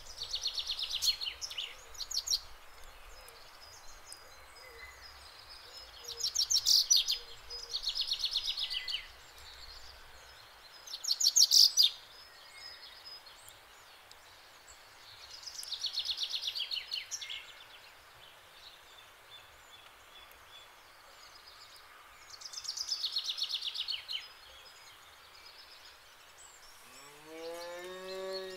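A songbird singing in trilled phrases, each a second or two long, repeating every few seconds. Near the end, a calf gives one short moo that rises in pitch.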